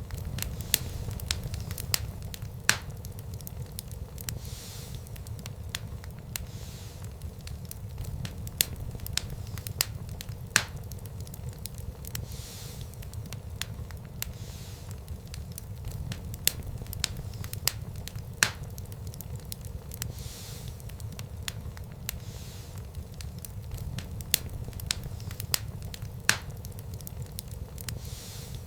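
Wood fire burning in a fireplace: irregular sharp crackles and pops, a few louder snaps among many small ones, over the steady low rumble of the flames.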